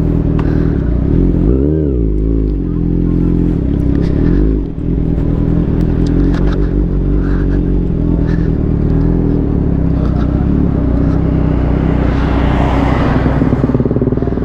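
2021 Kawasaki Ninja ZX-6R's inline-four engine running through an Austin Racing full-system exhaust, idling steadily with one short rev blip about two seconds in.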